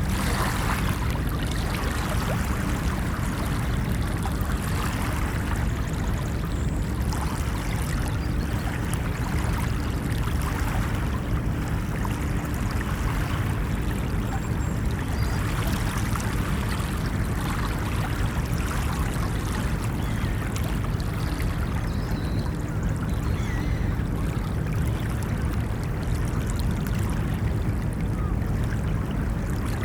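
Ocean surf washing onto a beach: a continuous low rumble of water with a splashy wash that swells and fades every few seconds.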